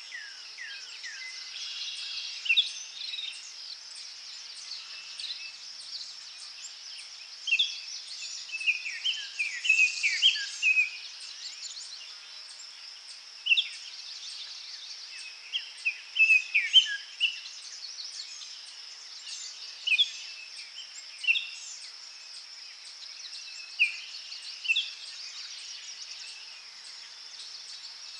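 Forest birds singing in short bursts of quick falling chirps, recurring every few seconds, over a steady high drone of insects.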